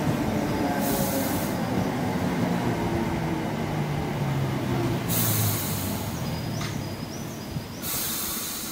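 Electric multiple unit train running slowly along the platform and braking to a stop, its low rumble and hum fading. Three short hisses of air come about a second in, about five seconds in and near the end, with a faint brake squeal just before the last.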